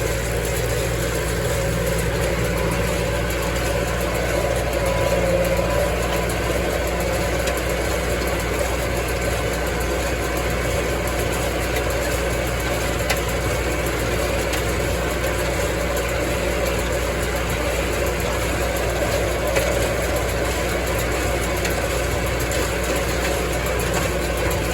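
Massey Ferguson tractor engine running at a steady speed with the baler working behind it.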